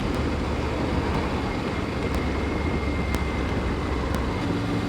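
Triumph Tiger 900 GT Pro's three-cylinder engine running steadily while riding, with wind and road noise over the microphone.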